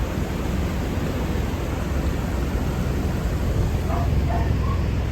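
Narrowboat engine running steadily under way, a low even drone with a hiss over it.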